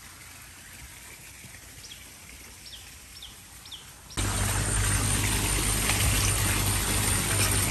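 Faint bird chirps over quiet outdoor background. About four seconds in, the sound jumps abruptly to a loud, steady rush of river water close to the microphone.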